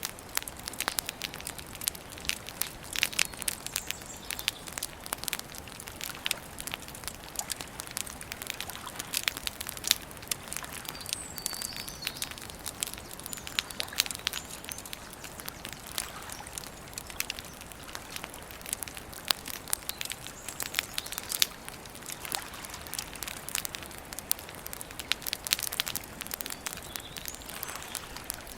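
Campfire crackling and popping steadily, with a few faint bird chirps in the background.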